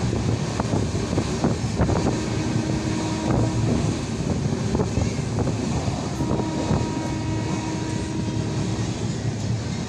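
Passenger train running at speed, heard from inside the coach by an open barred window: a steady rumble of wheels on the track mixed with wind rush. A faint steady hum comes in twice.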